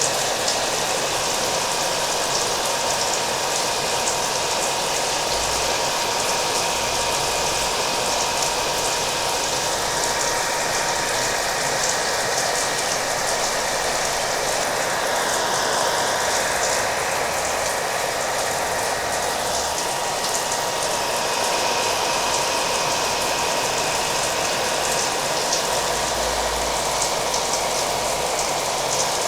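Hair dryer running steadily with a thin steady whine, mixed with falling rain.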